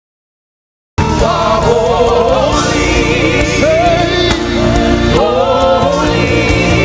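Dead silence for about a second, then live gospel worship music cuts in abruptly: a band with a choir and lead voices singing.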